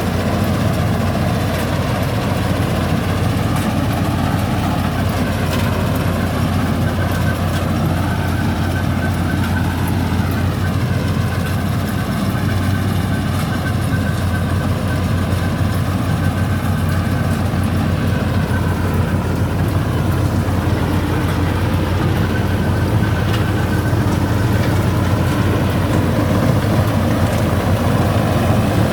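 Paddy-cutter tractor machine running steadily: a constant engine drone with machinery noise over it, and a faint high whine that comes in for a while in the middle.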